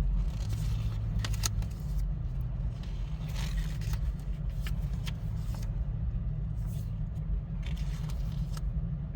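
Packaging and a paper manual being handled: a few short scrapes and rustles spread through, over a steady low hum.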